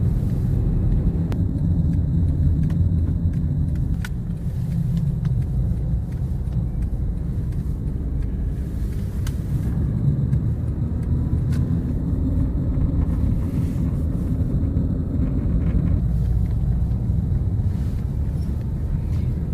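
Steady low rumble of a car's engine and tyres heard from inside the cabin while it drives up a mountain road, with a few faint clicks.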